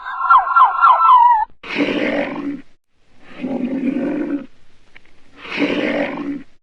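A rapid repeating pitched call, about six notes a second, breaks off about a second and a half in. Then an animal gives three roars, each about a second long.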